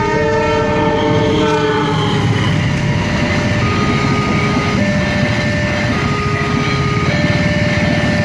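A train horn sounds a chord of several notes that sags slightly in pitch and fades out about two seconds in, over the rumble and wheel clatter of a passing passenger train. From about four seconds in, the level crossing's electronic warning signal alternates between a higher and a lower two-note tone, each held about a second, while the train keeps rolling past.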